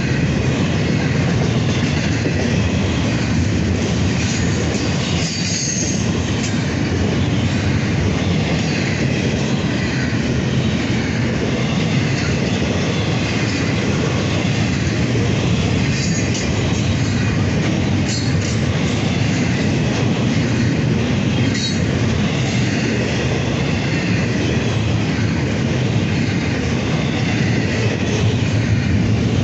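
Railroad cars of a passing train rolling by on the rails with a steady rumble, with brief high wheel squeals a few times.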